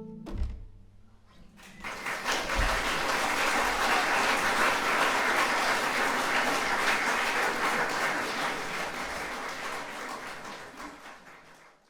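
The last held note of the music stops right at the start, and after a short hush an audience bursts into applause about two seconds in; the clapping keeps on steadily and then fades out near the end.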